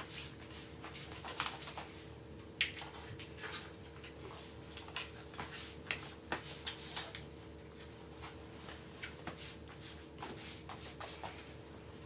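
Scattered light clicks and knocks of things being handled in a kitchen, over a steady faint hum.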